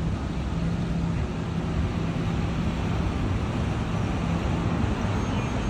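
Steady road traffic noise: a continuous low rumble with a faint engine hum.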